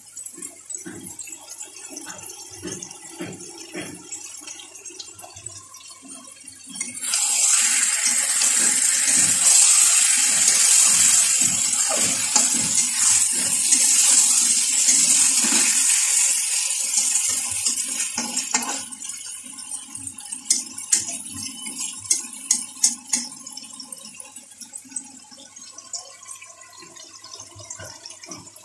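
Chicken roast sizzling in a wok: a loud hiss rises suddenly about seven seconds in and dies down over the next ten seconds or so. A steel spoon scrapes and taps against the pan while the pieces are stirred, with clicks toward the end.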